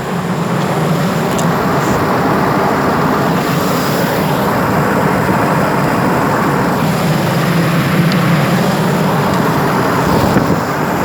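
Pickup truck's engine running with its cooling fans switched on: a loud, steady rush of air over the engine's hum. It is the fans coming on in normal operation, not a fault.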